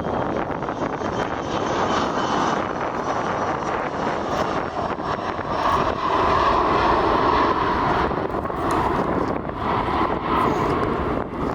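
Airliner engines running as the plane passes near the runway, a steady roar that swells about six seconds in, with wind buffeting the microphone.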